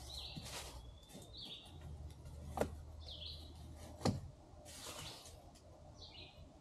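Birds chirping outdoors in short calls every second or two. Two sharp knocks about a second and a half apart near the middle are the loudest sounds, with a brief rustle later and a low rumble underneath.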